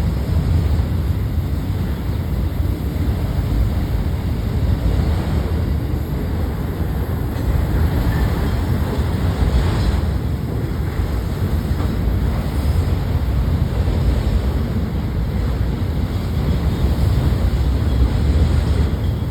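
Freight train rolling past with a steady low rumble, and wind buffeting the microphone.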